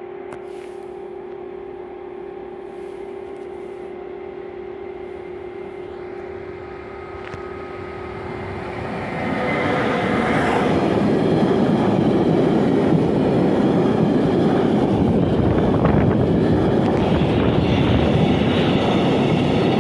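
Freight train on electrified track: a steady hum as the electric locomotive approaches, then about nine seconds in it passes close by and the sound turns loud, with a long string of tank wagons rolling by over the rails.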